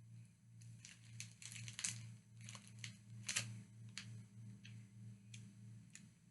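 Faint, irregular crunching and crackling of a small puffed corn snack being chewed.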